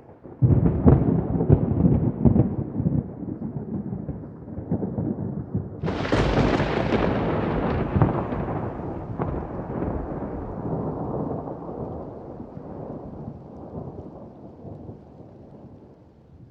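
Thunder over rain: a crackling rumble breaks out about half a second in, then a sharper, brighter crack about six seconds in rolls on and slowly fades away.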